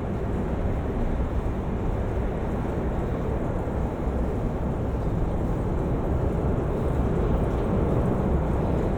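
Steady low rumble of road traffic and wind.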